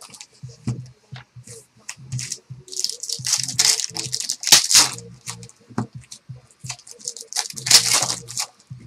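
Trading-card box packaging being torn open and handled: plastic wrap and cardboard ripping and crinkling in uneven bursts, loudest twice, with small clicks and taps between.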